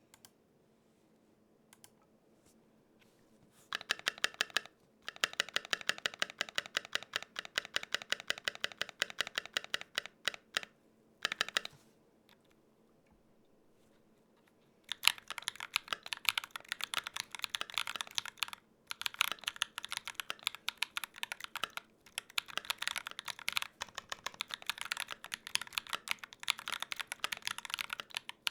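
Typing on a Gok 7V custom 75% mechanical keyboard with lubed tactile switches. After a few nearly quiet seconds comes a run of fast keystrokes, then a short pause. From about halfway in there is steady fast typing, with one brief stop.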